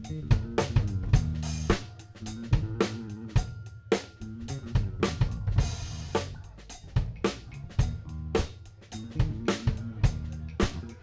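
Live rock band playing an instrumental passage: a drum kit keeps a steady beat of kick and snare under a stepping bass line, with cymbal crashes about a second and a half in and again around the middle.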